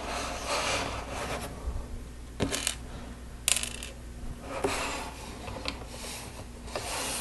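Small plastic Lego pieces being handled and pressed together, with rustling and a few sharp clicks of plastic on plastic.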